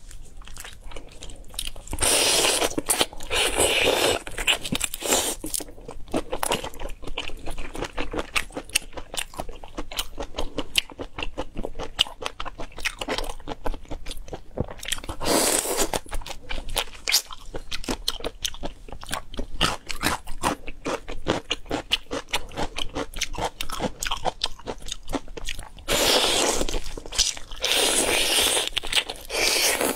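Close-up eating sounds: drunken shrimp being bitten and chewed, with rapid crunching and clicking of shells and wet mouth noises. Louder, longer noisy stretches come in about two seconds in, around fifteen seconds and again near the end.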